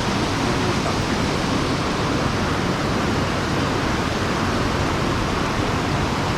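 Steady rush of mountain-stream water, an even noise with no breaks.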